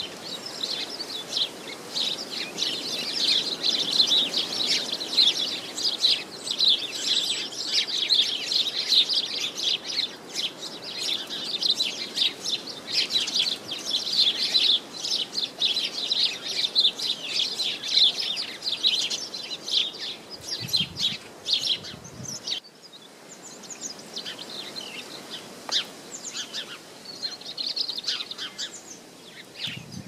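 Small garden birds chirping and twittering, many quick short calls overlapping into a busy chorus, with a light rush of wind underneath. About two-thirds of the way through it abruptly thins to sparser, quieter chirps.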